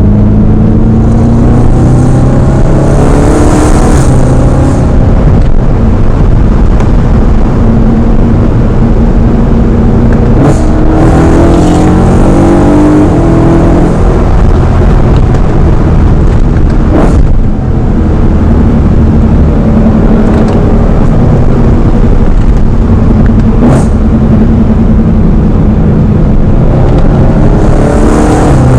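BMW M3 V8 engine revving and accelerating hard, loud, with its pitch climbing several times. A few sharp cracks fall between the pulls.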